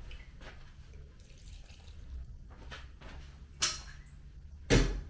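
Kitchen items being handled: a few light clicks, then two sharp knocks or clatters about a second apart near the end.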